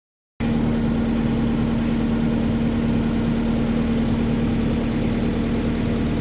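An engine idling steadily with a strong, even hum. It cuts in abruptly about half a second in.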